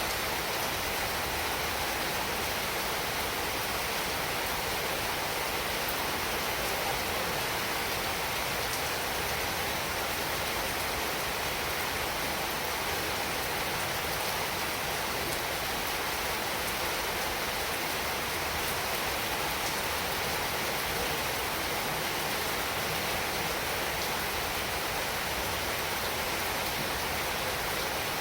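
Heavy rain falling steadily, an even hiss with no breaks or distinct drops.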